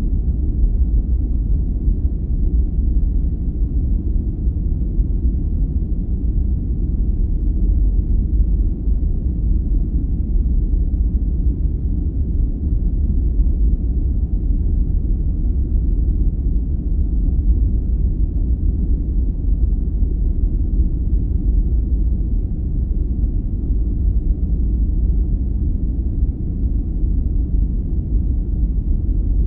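Steady, deep rumbling noise played as a sleep aid, unchanging throughout, all low and muffled with no hiss or high end.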